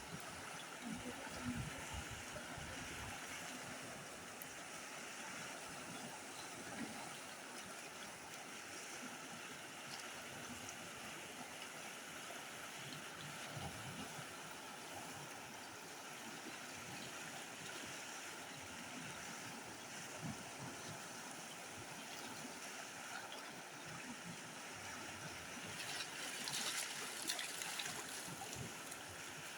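Steady hiss of rain falling, growing louder for a couple of seconds near the end.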